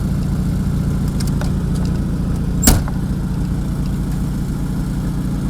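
A car engine running steadily, with one sharp click a little past halfway through.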